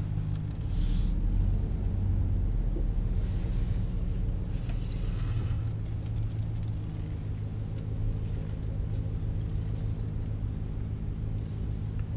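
A 2014 Dodge Ram 1500's 5.7-litre Hemi V8 pulling away, heard from inside the cab as a low engine rumble with road noise. The rumble grows louder about a second in. A few short hissing sounds come and go.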